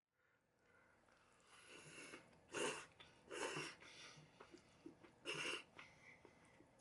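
Person slurping hot soup, three short breathy slurps over quiet room noise.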